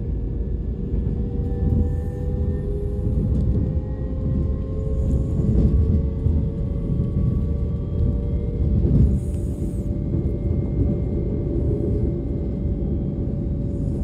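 Ride noise inside a DB Class 425 electric multiple unit: steady rumble of the wheels on the track, with a whine from the electric traction drive rising slowly in pitch as the train gathers speed.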